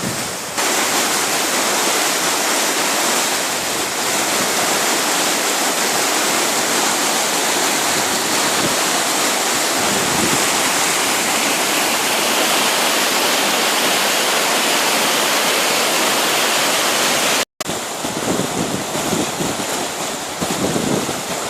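A flooded creek running high and fast: a steady, loud rush of floodwater. The sound drops out for an instant near the end.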